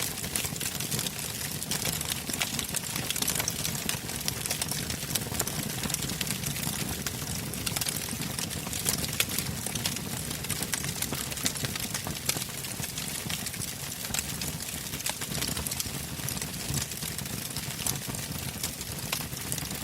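Wood bonfire burning: many sharp crackles and pops scattered over a steady low rumble.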